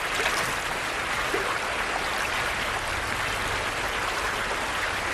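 Flowing water of a shallow salmon creek running steadily, an even hiss.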